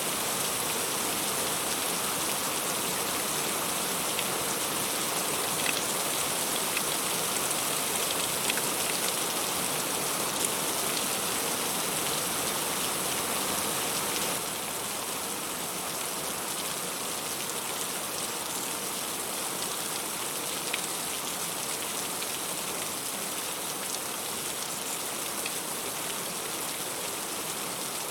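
Heavy rain falling steadily, a dense hiss with scattered individual drops ticking through it. It gets slightly quieter about halfway through.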